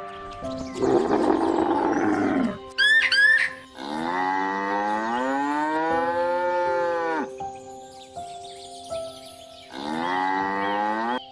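Cattle mooing: a rough call early on, then a long moo whose pitch rises and falls, and a shorter moo near the end, over light background music. A few brief high chirps sound around three seconds in.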